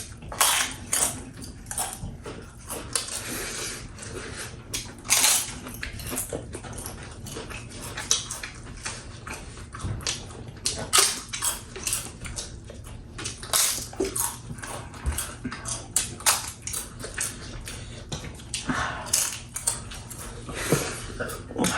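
Close-miked eating sounds: chewing and slurping, with many short sharp clicks and noisy breaths between mouthfuls of very hot chilli and curry.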